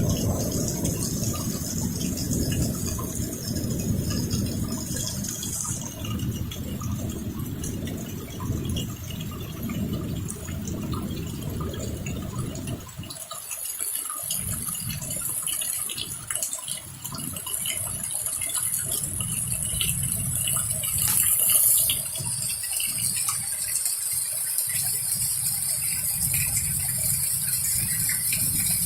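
Heavy thunderstorm rain pouring and splashing, with a dense low rumble for the first half. About halfway in the rumble drops away and a steady high hiss of rain takes over, swelling briefly a few seconds later.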